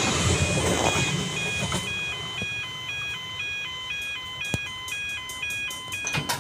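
Level crossing warning bells ringing as a fast, steady alternation of two electronic tones. At the start a passing train's rumble fades away over about two seconds. A few sharp clicks come near the end.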